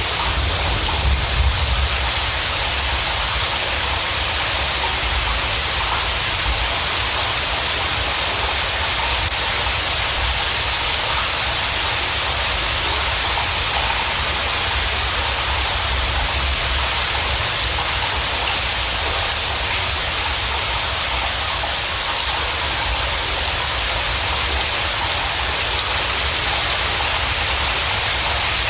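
Steady rain falling, an even hiss with a low rumble beneath, unchanging throughout.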